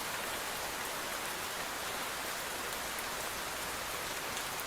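Recorded rainfall: a steady, even hiss of rain with faint scattered drop ticks.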